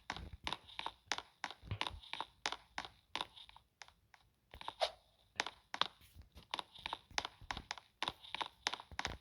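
Crunching footsteps, about two to three steps a second, with a short pause a little before halfway.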